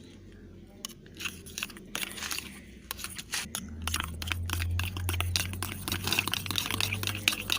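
Spoon stirring a gritty sugar-and-shampoo slime mixture in a bowl: irregular crunching clicks and scrapes that get busier about halfway through, with a low steady hum joining in.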